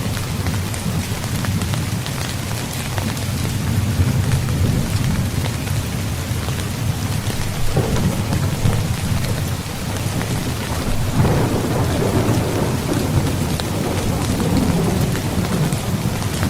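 Steady heavy rain falling, with thunder rumbling low beneath it. A louder peal of thunder breaks in about two-thirds of the way through and rolls on afterwards.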